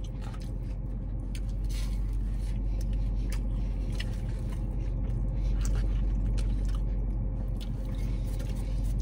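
Steady low hum inside a car, with faint scattered clicks of a person chewing crunchy fried food (seitan chicken fingers).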